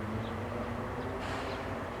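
Locomotive running steadily with a low engine hum, a short hiss about a second in, and a few faint high chirps.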